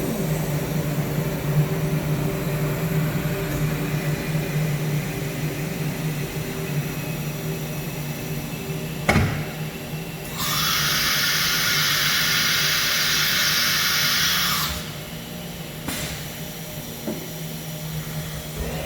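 CNC router with an automatic tool changer: a steady machine hum, a sharp click about nine seconds in, then a loud hiss of compressed air lasting about four seconds, and a second click after it.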